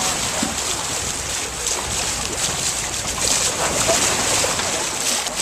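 Wind buffeting the microphone over water rushing past a sailboat's hull under way: a steady noisy wash with small splashes.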